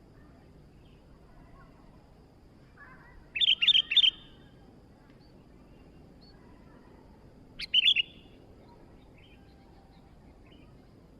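Sooty-headed bulbul (kutilang) calling: two short phrases of a few quick notes each, one about three seconds in and another about eight seconds in.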